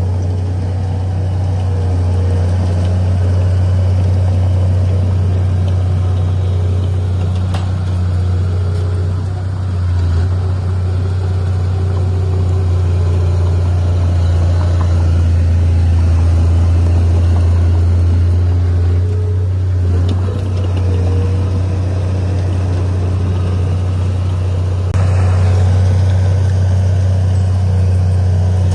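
Heavy diesel engine of earthmoving machinery running with a steady low drone, a little louder from about 25 seconds in.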